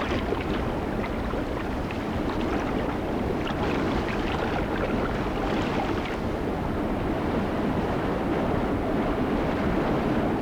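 Steady rushing, surging water noise, like a strong current or surf.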